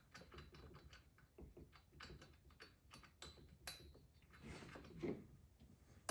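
Near silence with faint scattered clicks and light taps of small metal parts and tools being handled, a couple of them a little louder about four and five seconds in.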